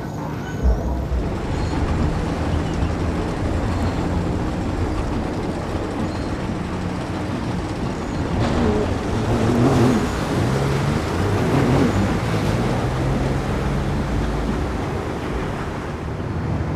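Engines running against a steady wash of outdoor noise, with a low hum that shifts in pitch and grows louder for a few seconds in the middle.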